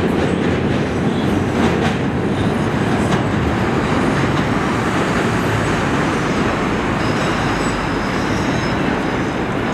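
CTA Blue Line train of mixed Budd 2600-series and Morrison-Knudsen 3200-series rapid-transit cars pulling away along elevated track: a steady rolling rumble with wheels clacking over rail joints in the first few seconds. A faint high wheel squeal comes in the middle, and the train grows slightly fainter toward the end as it draws away.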